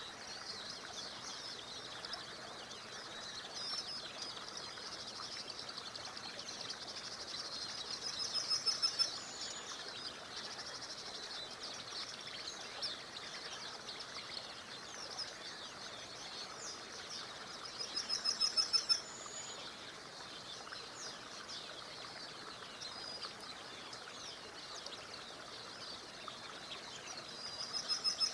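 Songbirds chirping throughout over a steady rush of a small river. One bird repeats the same short song, a quick trill of rapid notes that grows louder, about a second and a half long, three times at roughly ten-second intervals.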